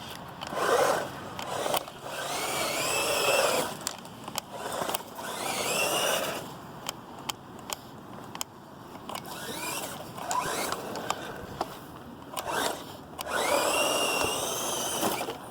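Hosim S911 RC truck's electric motor whining in about six bursts of throttle, the pitch rising as each burst speeds it up, with the wheels spinning in wet snow.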